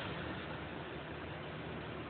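Steady background hiss with a faint low hum.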